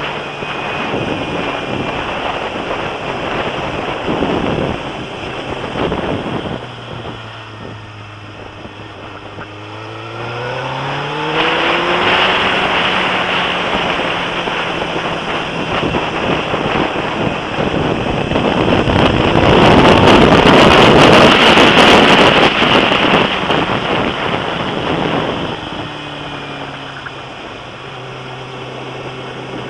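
Suzuki Gixxer motorcycle engine under way. The engine settles to a low steady note, then revs up as the bike accelerates about ten seconds in. Heavy wind noise on the camera microphone builds with speed, is loudest around two-thirds of the way through, and eases off near the end.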